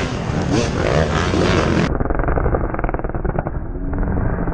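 Dirt bike engines revving, the pitch rising and falling. About two seconds in it cuts to a duller, muffled recording of an engine running with a rapid even pulse.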